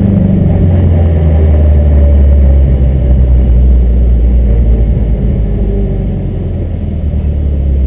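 Subaru Forester's flat-four engine heard from inside the stripped cabin: the engine note drops in pitch within the first second as the throttle is lifted, then runs low and steady at low revs. It grows gradually quieter as the car slows.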